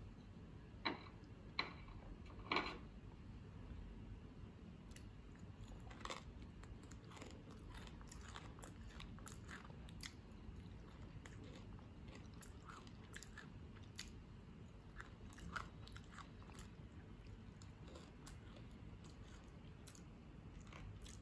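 Quiet chewing and crunching of a dry, crunchy fried lentil snack (moong dal), with three sharp clicks in the first three seconds, the loudest about two and a half seconds in, then faint scattered crunches.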